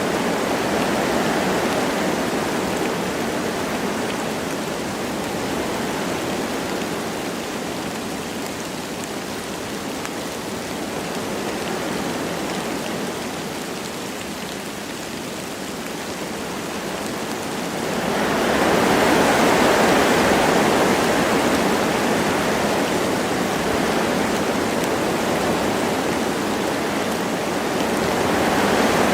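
Wind blowing through forest trees with light rain, a steady rushing hiss that swells into a stronger gust about two-thirds of the way through.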